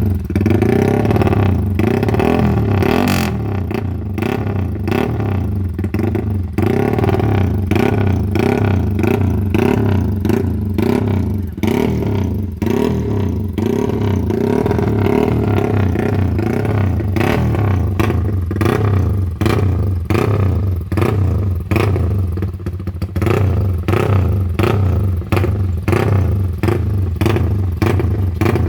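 Yamaha Y15ZR motorcycle's single-cylinder four-stroke engine through an NLK aftermarket exhaust, revved in repeated quick throttle blips over idle. The blips come faster and choppier in the second half.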